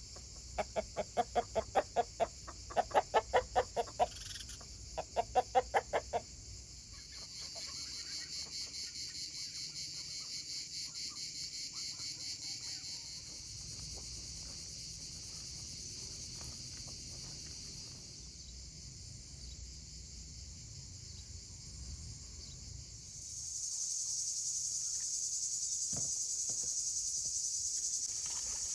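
Chickens clucking in quick runs of calls for the first six seconds. Then insects chirr steadily in a high band, growing louder a little after twenty seconds in.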